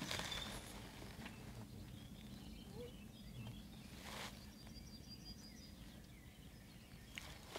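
Faint birds singing and chirping in open countryside, with a short high trill about five seconds in, over a low rumble of background noise. A single brief rustle about four seconds in.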